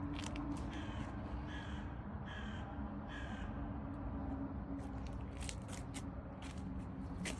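An animal's four short, harsh calls, evenly spaced about two-thirds of a second apart, between one and three and a half seconds in, with scattered sharp clicks later on.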